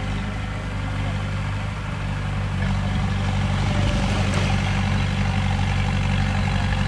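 Heavy diesel engine of earthmoving machinery running steadily, growing louder about two and a half seconds in.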